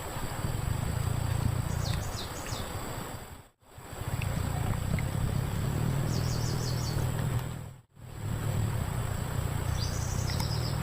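Outdoor ambience: a steady low rumbling noise under a thin high whine, with short bursts of bird chirps about two seconds in, around six seconds and near the end. The sound cuts out briefly twice.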